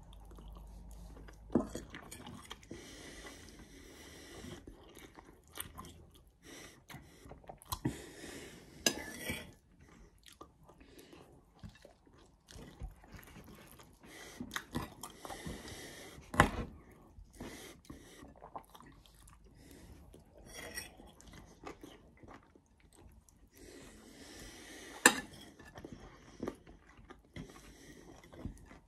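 A man chewing salad close to the microphone, with soft crunching of leaves. Scattered sharp clicks of a metal fork against the bowl, the loudest about halfway through and a few seconds before the end.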